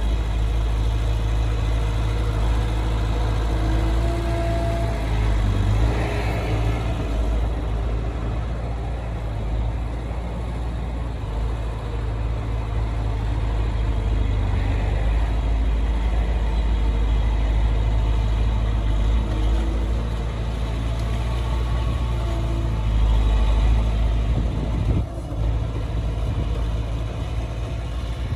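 Heavy diesel engine of earthmoving machinery running steadily with a deep sound, its loudness rising and easing a little with load.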